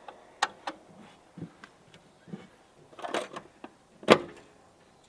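Scattered clicks and knocks of camping gear being handled and packed away, with a cluster of rattling clicks about three seconds in and a single sharper knock just after four seconds.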